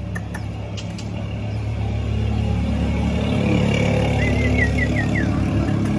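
A motor vehicle engine running steadily and growing louder. A bird gives a quick run of about five short chirps about four seconds in.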